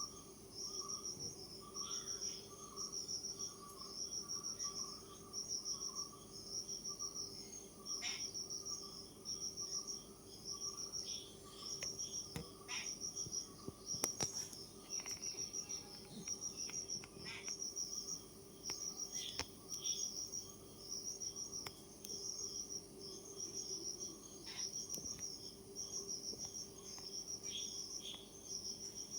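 Insects chirping in regular trains of short, high-pitched pulses, about once a second, over a steady high-pitched drone, with a few faint clicks.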